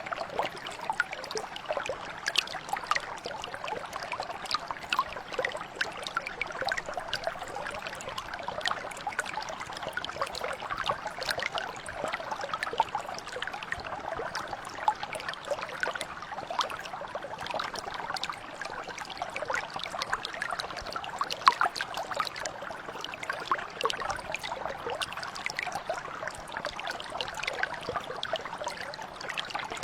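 A mountain brook flowing steadily, its water babbling over stones with many small splashes and trickles.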